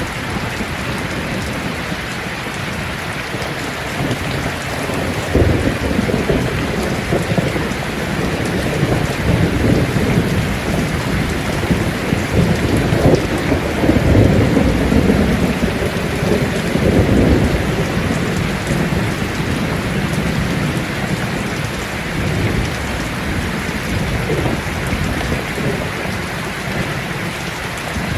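Steady rain pattering on leaves. A long, low roll of thunder builds about five seconds in, is loudest about halfway through, then dies away.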